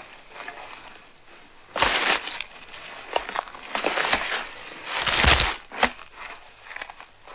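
Irregular crunching and rustling sounds, with a few dull thumps, the heaviest about five seconds in.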